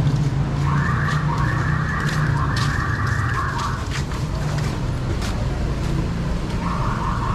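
Street traffic: a vehicle engine running steadily, with a hissing squeal for about three seconds starting under a second in, and again briefly near the end.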